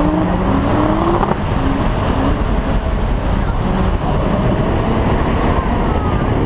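Holden VY Commodore ute's engine revving, rising in pitch over the first second or so, then running on under a steady rush of noise.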